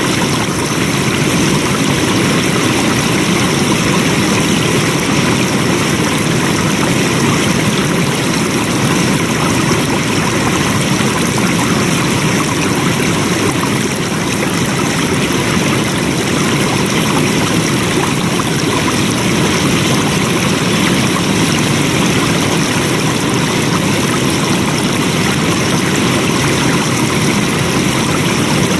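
Water flowing steadily over rocks in a stream, a continuous, even rushing and splashing with no change in level.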